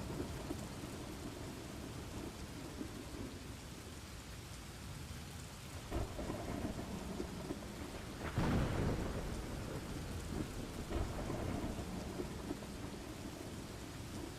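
Steady rain with rolling thunder, a louder thunder rumble about eight seconds in.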